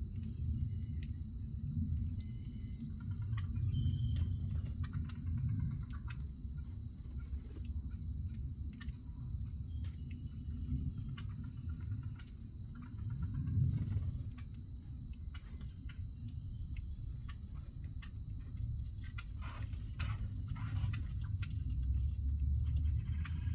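Backyard ambience: a steady high-pitched insect drone and scattered short bird chirps over a constant low rumble, which is the loudest part.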